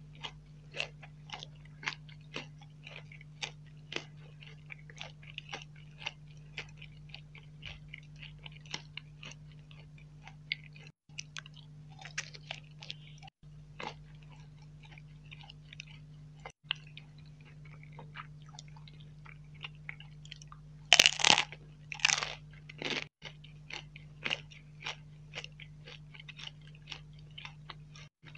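Close-miked crunching and chewing of chocolate-coated nut balls, a steady rhythm of about one to two crunches a second. A few much louder crunching bites come a little past the middle. A faint steady hum runs underneath.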